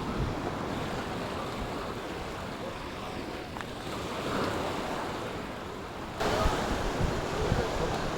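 Mediterranean surf washing onto a beach, with wind buffeting the microphone. About six seconds in, the sound jumps abruptly to a louder, brighter wash.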